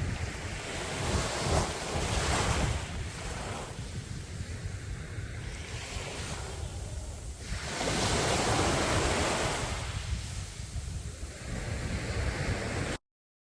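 Sea waves breaking and washing on a beach, with two larger surges about a second and about eight seconds in, over wind rumbling on the microphone. The sound cuts out abruptly near the end.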